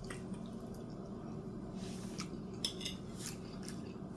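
Faint eating sounds from a plate: a few soft, scattered clicks and a brief scrape of cutlery.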